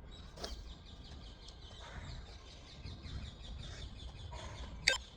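Faint, busy bird calls, with a single sharp knock near the end.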